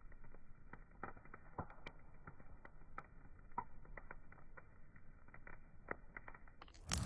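Wood fire crackling: scattered small, irregular pops and snaps over a soft, muffled hiss. Near the end a sudden, much louder burst of noise cuts in.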